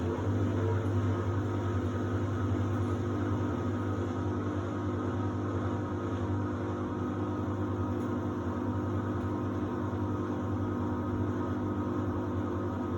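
Samsung WD70T4047CE washer-dryer running with a steady low hum and drone, no rhythm or change in pitch.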